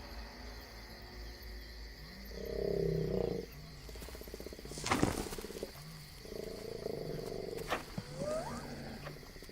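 Two deep, pulsing calls from a large wild animal, each about a second long, a few seconds apart. Night insects ring steadily behind them. A couple of sharp clicks come in the middle, and short rising chirps, like frogs, come near the end.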